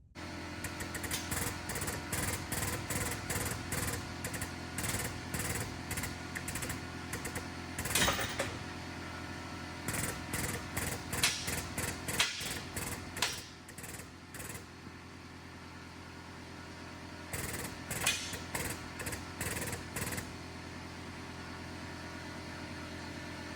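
Auto-body frame-straightening work: a machine runs with a steady hum, while sharp, irregular metal knocks come in bouts of a few a second. The knocks stop about halfway through and return briefly near the end.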